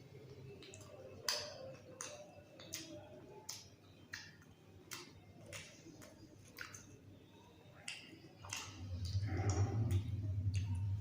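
Close-up eating sounds: a run of sharp wet mouth clicks and smacks from chewing food. Near the end a louder low hum comes in.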